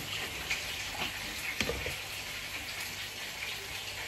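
Steady hiss of food sizzling in a frying pan, with a few light clicks and knocks of washed dishes being handled at a stainless steel sink.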